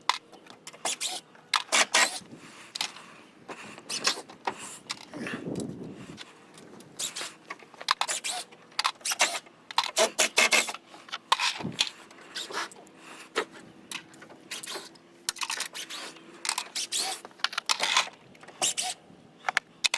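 Irregular sharp clicks and knocks, several a second in places, from hand work taking apart the old dock's boards and hardware, with a brief low rumble about five seconds in.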